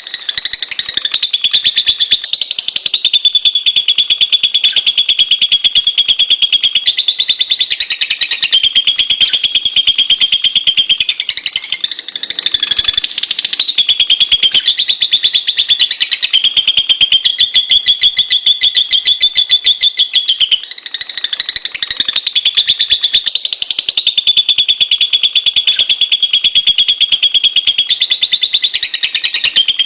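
Lovebird giving a long, very rapid, high-pitched chattering trill that runs almost without a break, pausing briefly about twelve seconds in and again about twenty-one seconds in.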